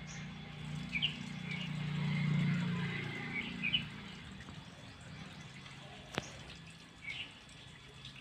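Birds chirping a few times over a low hum that swells about two seconds in and then fades, with one sharp click about six seconds in.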